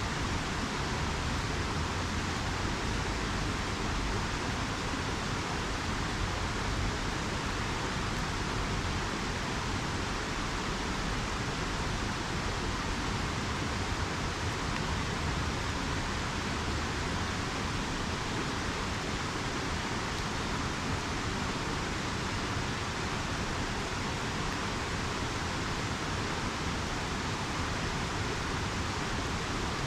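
River water rushing steadily, an even noise with no distinct crackles or pops standing out.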